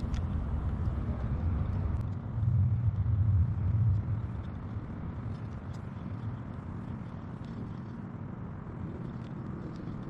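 Low rumbling outdoor background noise, swelling about two seconds in and easing off after about four seconds, with a few faint ticks.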